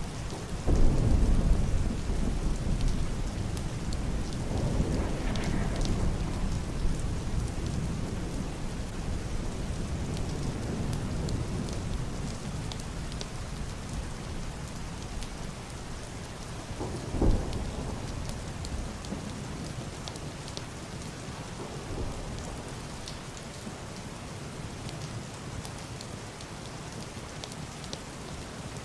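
Heavy rain drumming steadily on a wooden roof and window glass, with muffled thunder: a low roll swells about a second in and fades over several seconds, and a short, sharper clap comes a little past halfway.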